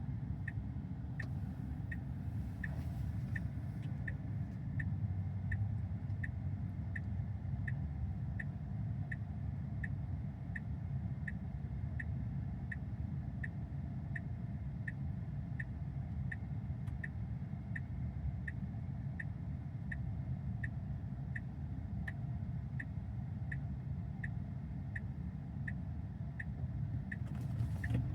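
Tesla Model Y turn-signal indicator ticking steadily, about three ticks every two seconds, over the low rumble of the car's cabin.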